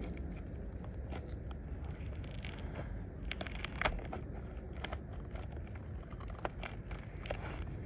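Scattered scrapes, crinkles and small clicks of asphalt roof shingles and a nailing tool being handled during a shingle repair, most of them from about three seconds in, over a steady low wind rumble on the microphone.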